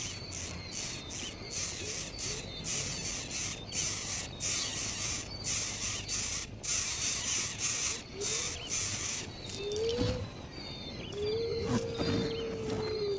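Wild animal calls in a natural setting: a run of irregular hissy high-pitched pulses, roughly one or two a second, over a faint steady insect drone, with a few lower rising, held calls near the end.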